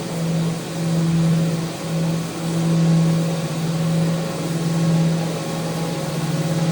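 Electric power sander running steadily against a wooden handrail, its motor hum and the sanding noise swelling and dipping every second or two as it is worked back and forth.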